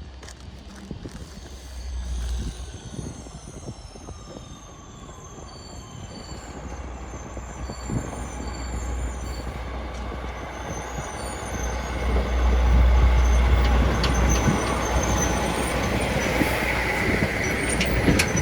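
A heavy vehicle approaching and going by, its rumble growing louder and peaking about two-thirds of the way in, with thin high squeals over it.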